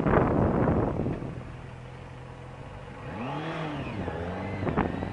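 Motorcycle engine: wind rush from riding at first, then the engine idles steadily and is given one throttle blip about three seconds in, its pitch rising and falling back within about a second.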